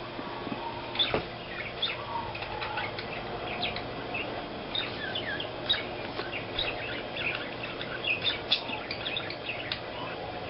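A small bird chirping and tweeting in short, irregular calls, with a single click about a second in.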